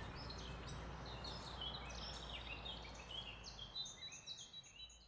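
Faint birdsong: many short high chirps in quick succession, over a low steady background hum that drops away near the end.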